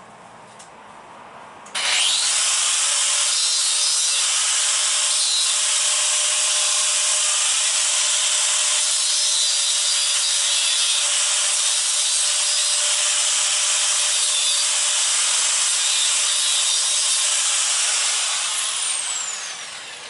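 Power grinder dressing spot welder electrode tips. It starts suddenly about two seconds in, runs steadily with a loud high hiss, then winds down with a falling pitch near the end.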